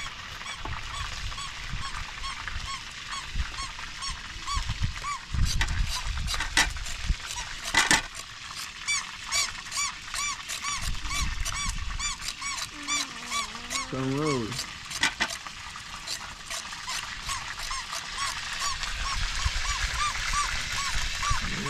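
Birds calling over and over in short, high, arched chirps, about three a second, with a lower wavering call about two-thirds of the way through. Scattered clicks and scrapes come from a knife peeling a carrot.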